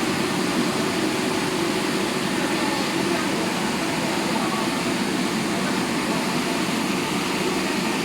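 Double-arm touchless car wash machine running, a steady rushing noise.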